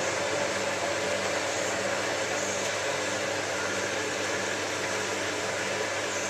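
Hotpoint 9534A washing machine's drain pump running steadily with a low hum as the last of the wash water is pumped out.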